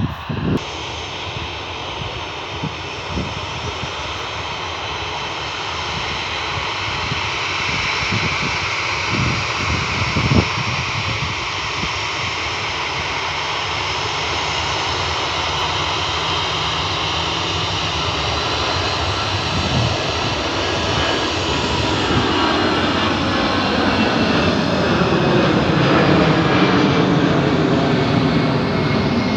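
Jet airliner engines, a steady rush that grows slowly louder; in the last several seconds a whooshing tone sweeps down in pitch as the plane passes close.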